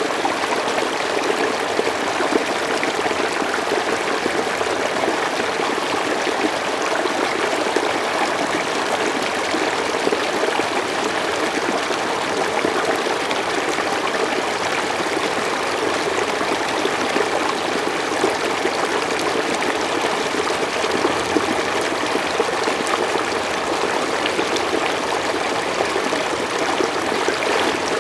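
Mountain stream flowing steadily over rocks, a constant rushing and babbling with small splashes.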